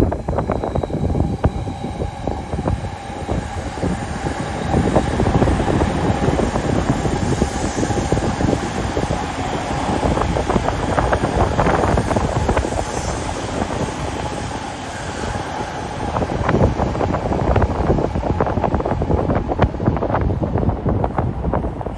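Electric train running on the tracks directly below, with rapid clatter and a steady whine that fades out about three-quarters of the way through. Wind buffets the microphone throughout.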